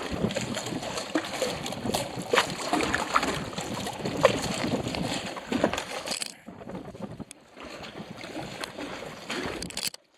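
Gusty wind buffeting the microphone, a rough rushing noise with scattered knocks, which drops away abruptly about six seconds in to a much quieter hiss.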